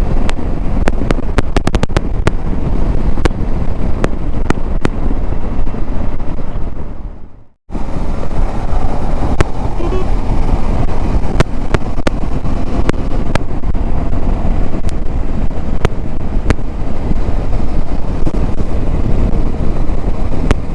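Wind buffeting and rumbling on a helmet-mounted Maono microphone in a foam and dead-cat windshield, on a motorcycle at highway speed, with road and traffic noise underneath and frequent crackling pops. About seven seconds in the sound fades out briefly, then cuts back in.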